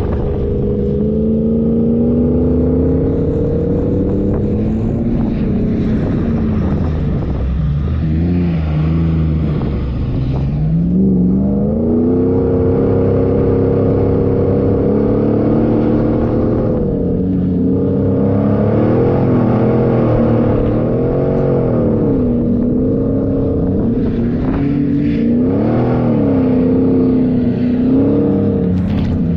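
4x4 engine running under constantly changing throttle, its pitch rising and falling again and again, over a low rumble.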